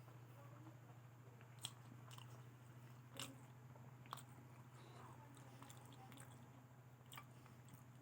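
A person eating spicy potato fry close to the microphone: faint chewing with a few sharp crunchy bites scattered through, over a steady low hum.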